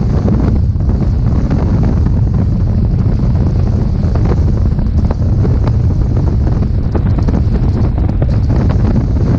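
Loud wind buffeting the microphone on a boat under way: a steady, heavy low rumble.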